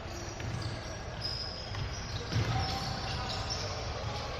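Basketball game in a gym: the ball bouncing on the hardwood court, short high squeaks, and voices of players and spectators, with a louder thump about halfway in.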